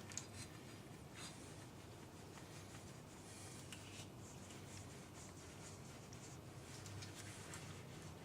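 Faint scraping, rubbing and light clicks of small metal distributor parts being handled and worked on a bench.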